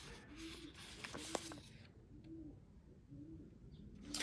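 A bird's low cooing, a short call repeated about once a second, faint. Paper cards being handled make a click or two.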